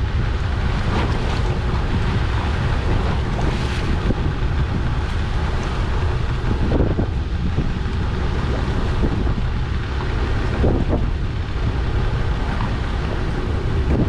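Steady wind buffeting the microphone aboard a small fishing boat at sea, over a constant low rumble from the boat and water, with a few brief louder gusts.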